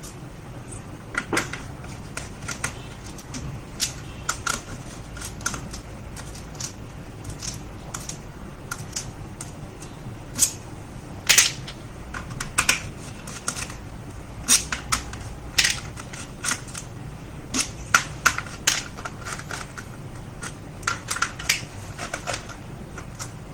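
Irregular sharp clicks and taps of plastic and metal laptop parts being handled and pried apart during disassembly, some louder snaps among lighter ticks.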